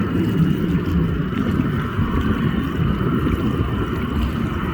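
Wind buffeting the microphone over the steady rumble and faint whine of distant jet aircraft engines.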